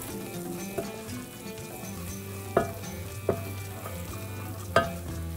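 Red lentils and spices frying in ghee in a stainless steel pot, stirred with a silicone spatula: a soft sizzle and scraping, with three sharp knocks of the spatula against the pot in the second half.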